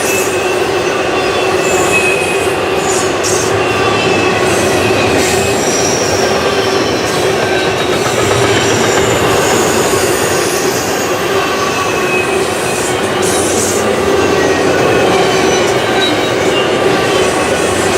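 Freight train cars rolling past steadily, with wheels squealing in thin high whines that come and go.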